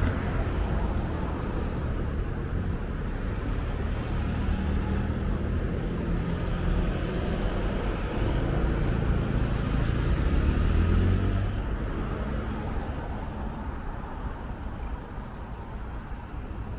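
Street traffic: a steady rumble of cars passing, with one vehicle growing louder to a peak about two-thirds of the way through and then fading away.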